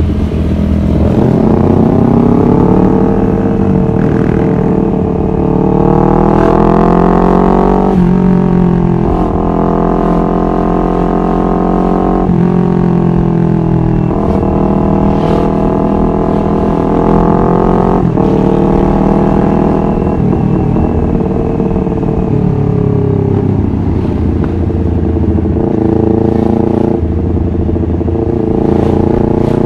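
Honda CBR250RR motorcycle engine under way, its revs climbing and then dropping at each of several upshifts. The revs ease off in the middle and climb again near the end.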